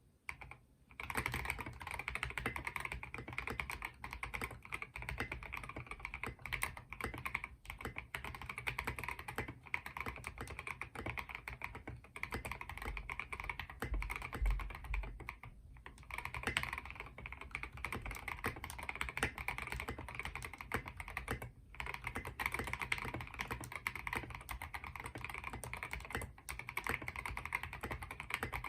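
Continuous fast typing on a Rama Works M65-B mechanical keyboard: Gateron Black Ink V2 linear switches lubed with Tribosys 3204 on a polycarbonate plate, under SA keycaps. The typing starts about a second in and pauses briefly twice.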